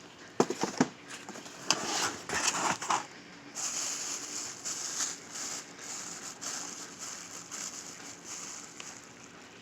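Packing paper rustling and crinkling as mineral specimens are unwrapped, with a few sharp clicks and knocks of handling in the first three seconds, then softer, steadier rustling.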